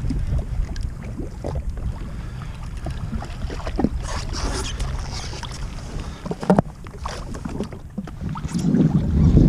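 Wind buffeting the microphone over water splashing and slapping against a jet ski's hull, with a single sharp knock about six and a half seconds in.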